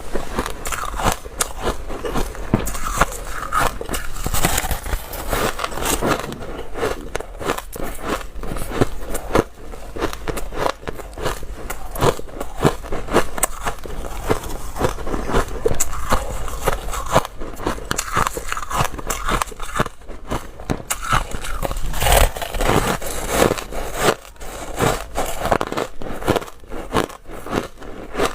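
Dry, crunchy ice being bitten and chewed close to the microphone: rapid, continuous crunching and cracking with no real pauses.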